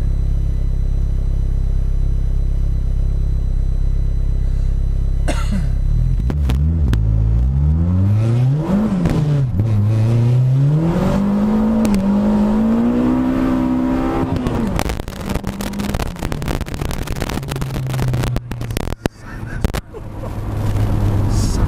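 Turbocharged Honda D16Z6 engine heard from inside the Civic: a steady low hum, then hard acceleration from about six seconds in, the engine note rising, dropping briefly at a gear change and rising again before lifting off.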